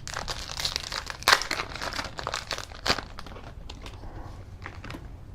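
Wrapper of a 2017 Donruss football card pack being torn open and crinkled, with two sharp louder rips in the first three seconds, then lighter crinkles and clicks as the cards are handled.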